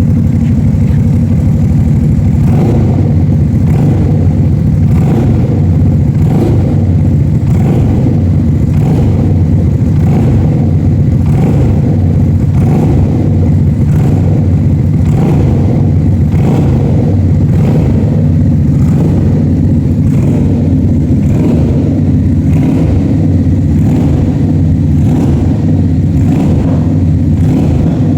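V-twin motorcycle engine running steadily through an aftermarket SC-Project exhaust, loud and deep, with an even pulse from a couple of seconds in.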